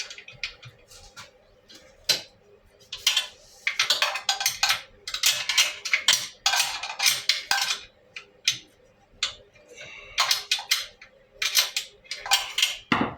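Ratchet wrench clicking and metal tools clinking in quick clusters as the bolt holding the mini bike's motor down is tightened.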